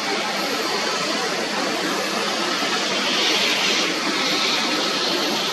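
Jet airliner engines, a steady rushing roar that grows a little brighter and louder about halfway through.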